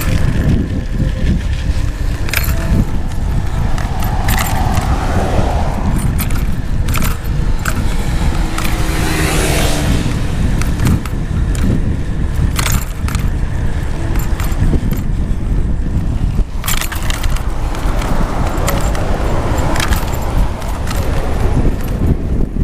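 Wind buffeting the microphone of a camera riding along on a moving bicycle, with frequent short rattles and clinks as the bike goes over bumps. A hiss swells and fades about nine seconds in.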